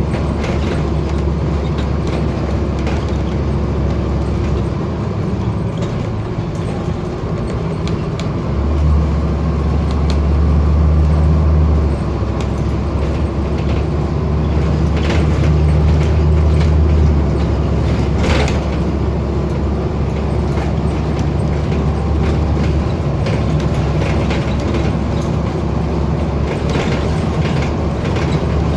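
Scania N230UD bus's five-cylinder diesel engine heard from on board, running hard at high revs with its drone stepping louder and quieter several times as load and gears change. The ZF automatic gearbox is slipping, so the engine keeps running up towards the redline. A single sharp click comes about two-thirds of the way through.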